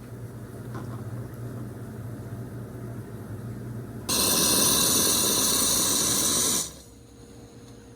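A loud, steady hiss that starts suddenly about four seconds in and cuts off two and a half seconds later, over a low steady hum.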